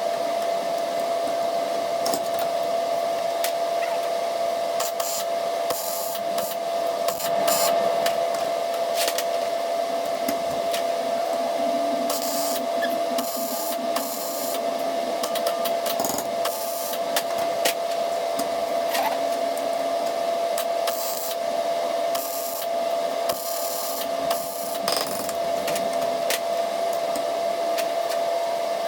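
Arc welding on scrap steel nuts and bolts: repeated short bursts of crackling, sizzling arc over a steady hum.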